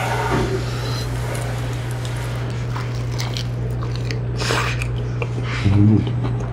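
A man biting into and chewing a leaf-wrapped mouthful of spicy stir-fried octopus, with small wet smacks and clicks, over a steady low hum.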